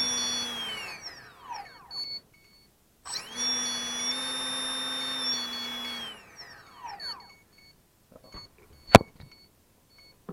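Small brushless outrunner motor running with a high whine over a rough, rasping buzz, then spinning down with a falling whine. It spins up again about three seconds in, runs for about three seconds and winds down the same way. The owner calls the sound terrible and says the bearings are not the cause. A sharp click comes near the end.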